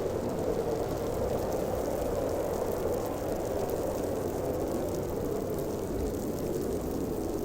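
Blizzard wind howling, a steady, deep rushing noise with no breaks or gusts standing out.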